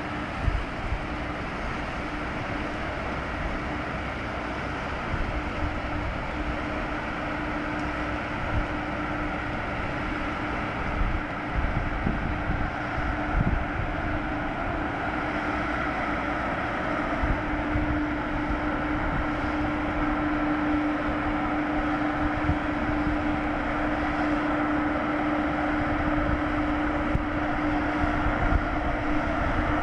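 A ship's engines droning steadily, with a constant hum that grows stronger about halfway through as the drone slowly gets louder. Wind buffets the microphone.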